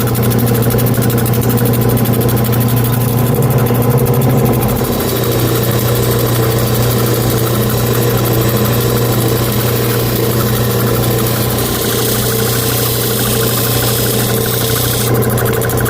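Lapidary cabbing machine running: the electric motor and spinning wheel hum steadily, with a hiss that grows stronger about five seconds in as turquoise is worked on the wheel.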